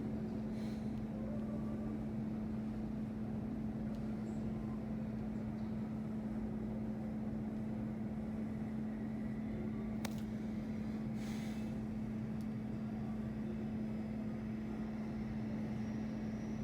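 Steady machine droning hum with one constant low tone, unchanging throughout; a faint click about ten seconds in and a brief hiss just after.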